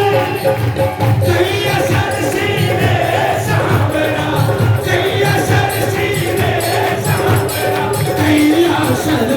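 Hindu devotional bhajan music: singing with a steady percussion beat and tambourine-like jingles, with a crowd joining in.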